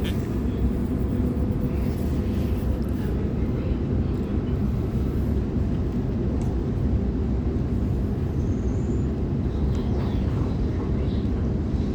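Steady running rumble of a Sydney Trains Waratah electric multiple unit travelling at speed, heard from on board the carriage.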